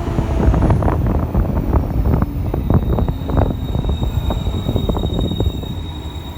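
Mercedes-Benz O500UA articulated bus with its Bluetec 5 diesel engine, on the move: a low engine rumble under many sharp rattles and knocks. A faint high whistle comes in about halfway, and the sound eases off near the end.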